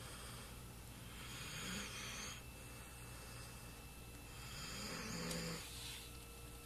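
Dog snoring in its sleep: two long snoring breaths about three seconds apart.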